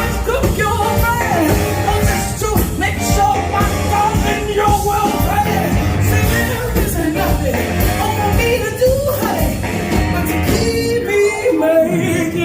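A band playing rock and roll, with a lead melody line gliding over a steady beat.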